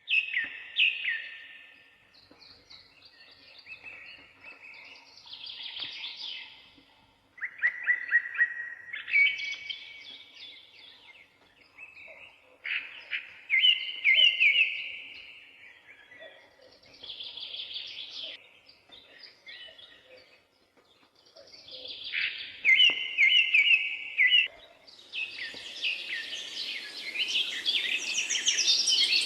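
Songbirds singing in short phrases a couple of seconds apart, with quick trilled notes. Near the end a steady hiss comes in beneath denser, higher-pitched song.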